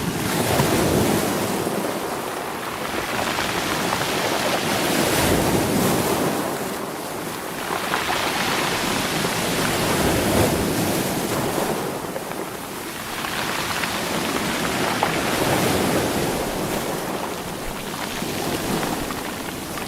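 Sea waves surging onto a stony shore and rolling the rocks, the rush swelling and falling back about every five seconds.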